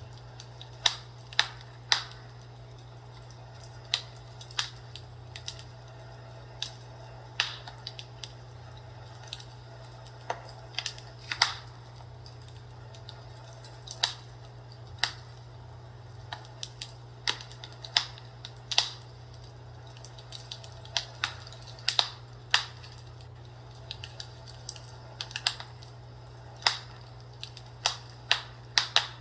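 Fireplace crackling: irregular sharp pops and snaps, sometimes several close together, over a steady low hum.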